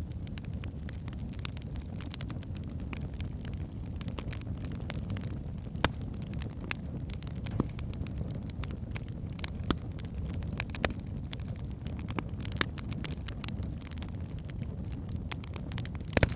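Wood fire in a fireplace burning steadily, with a low rumble of flame and frequent sharp crackles and pops from the logs, a few of them louder.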